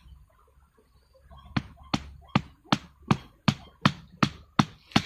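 Rapid, evenly spaced striking blows, about three a second, starting about a second and a half in and keeping a steady pace: hammering or chopping while the snare line's stakes are set.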